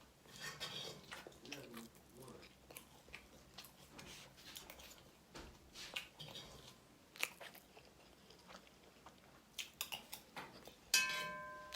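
Someone chewing and biting food close to the microphone, with small crunches and mouth clicks. A short pitched sound cuts in near the end.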